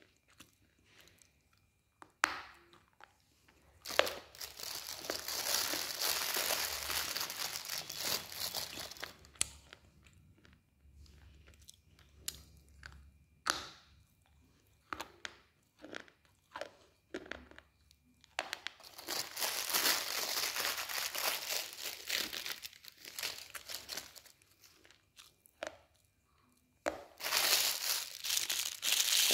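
Slate being bitten and chewed close to the mouth: a few sharp crisp bites, then three long spells of dense gritty crunching, with scattered cracks between them.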